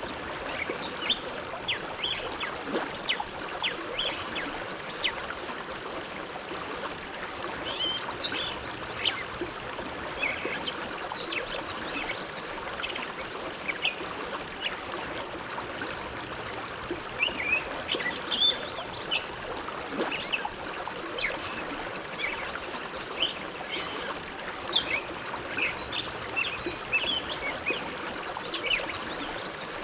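The Bow River flowing: a steady rush of water, with many small splashes and gurgles all through.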